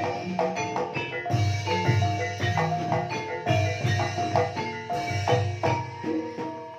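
Banyumasan gamelan ensemble playing a gending in the ebeg style: a busy pattern of struck, ringing mallet-instrument notes over low thudding strokes.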